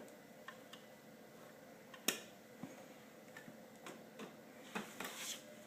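Scattered light clicks and knocks of toy garbage trucks being handled, with a sharp knock about two seconds in and a quick cluster of clicks near the end.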